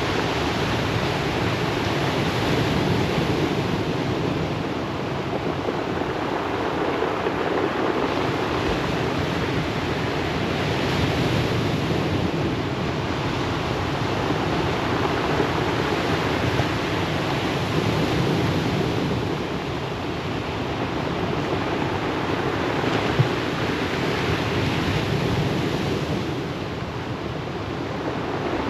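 Ocean waves breaking and washing up the shore, a continuous rushing wash that swells and eases every several seconds.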